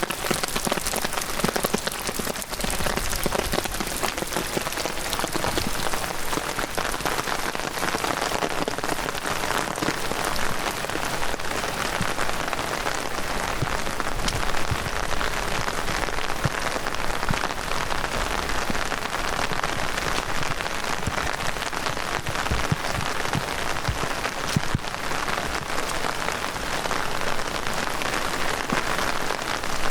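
Heavy rain falling steadily, a dense patter of drops with many small individual hits.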